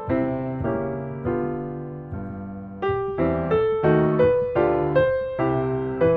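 Background piano music: gentle melody of single notes that decay after each strike, growing busier about three seconds in.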